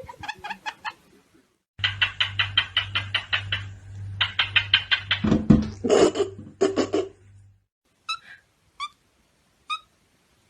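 Parrot calling in rapid runs of short, high chirps, about five a second, then three short separate chirps near the end.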